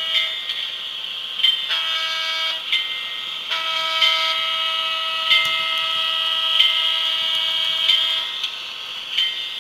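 Model diesel locomotive's Digitrax sound decoder playing an EMD 567 diesel engine through its small speaker, with its horn sounding a short blast about two seconds in and a long blast from about three and a half to eight seconds. Sharp clicks come roughly every second and a half over the steady engine hum.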